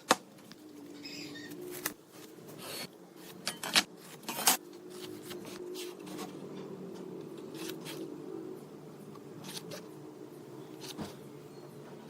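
Irregular sharp taps and knocks, about a dozen, the loudest ones bunched in the first few seconds, over a faint steady hum.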